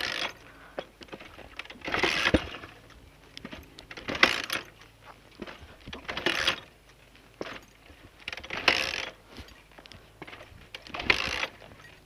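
Honda XLR125 dirt bike being kick-started over and over: six kicks about two seconds apart, each a short clatter of the engine turning over. It never catches, because the hot engine won't restart after stalling.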